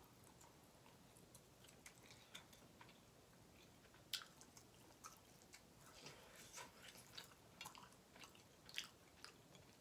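Faint close-up chewing of grilled kabob meat, with scattered wet mouth smacks and clicks; the sharpest come about 4 seconds in and again near the end.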